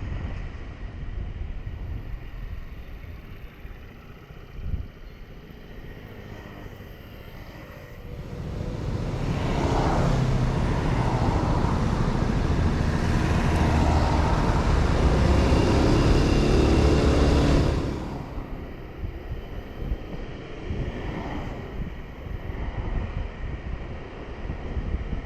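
Honda 125 cc motorcycle riding through city streets, with engine and road noise captured by a helmet or bike-mounted action camera. Louder for about ten seconds in the middle, with a rush of wind noise, then settling back.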